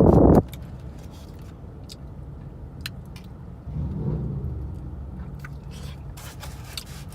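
A steady low hum of a car idling, heard inside the cabin, with scattered soft clicks and smacks of someone chewing chicken wings. A loud sound cuts off abruptly about half a second in, and the hum swells briefly about four seconds in.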